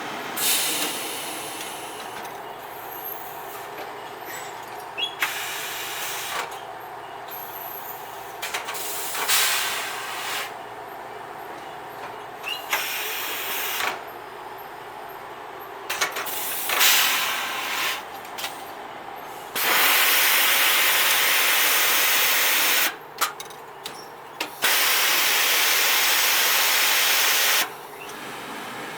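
Machinery running in a clothes cleaning plant under a steady hum, with repeated short bursts of hissing. Near the end come two longer, louder hisses of about three seconds each, with a short break between them.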